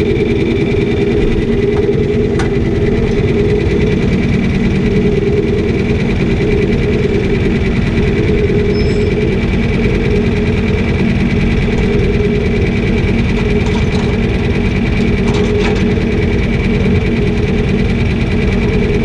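Heavy engine of a farm machine spreading chicken litter, running steadily at constant speed, with a few faint clicks.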